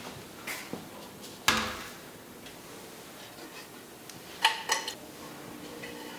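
Kitchen dishes and utensils being handled: a few light clicks, a sharp knock about a second and a half in, then a quick cluster of ringing clinks around four and a half seconds.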